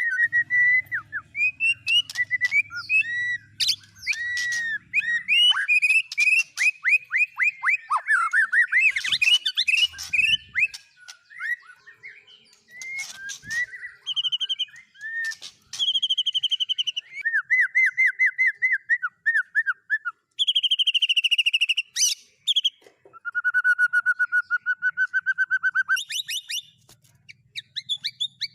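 White-rumped shama singing a loud, varied song that changes phrase every second or two: runs of repeated whistled notes, fast trills and a long buzzy rattle, the kind of mimicked 'isian' phrases prized in a competition bird.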